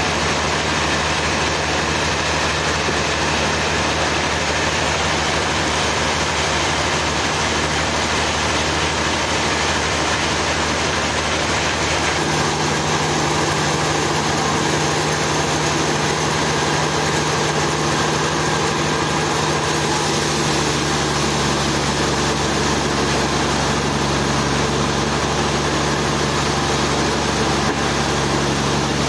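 Sawmill engine running steadily, with a slight change in its tone about twelve seconds in.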